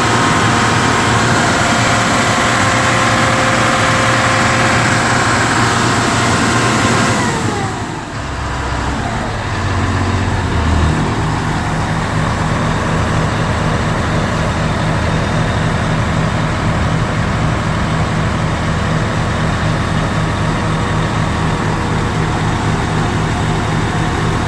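Cummins L10 300 hp inline-six diesel engine in a truck, running at raised revs. About seven seconds in the revs drop and it settles into a steady, evenly pulsing idle.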